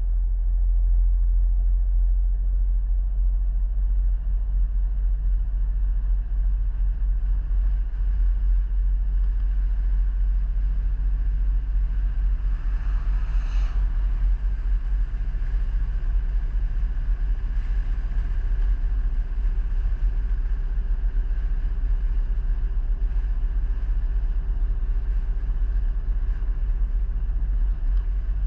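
A road vehicle driving: a steady low rumble of engine and road noise, with a brief swell of hiss about halfway through.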